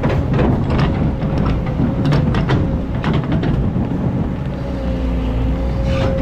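Excavator working in sand: the diesel engine runs steadily under load with a thin, steady whine over it, and the machine's metal parts give repeated clanks and knocks in short clusters.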